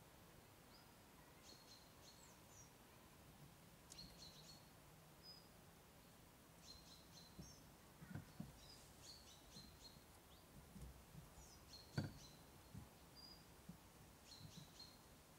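Faint birdsong: short chirping phrases from small songbirds repeating every second or two over a quiet outdoor background. A few soft low thuds come in the second half, the loudest about twelve seconds in.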